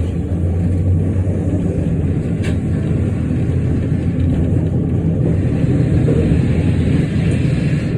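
Christchurch heritage electric tram running along its street track: a steady low rumble of motor and wheels, with a single sharp click about two and a half seconds in.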